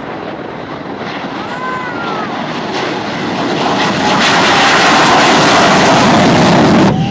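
Shockwave jet truck's three afterburning J34 jet engines at full afterburner during its acceleration run: a loud, rushing jet noise that builds over the first few seconds, holds at its loudest, then drops off sharply just before the end.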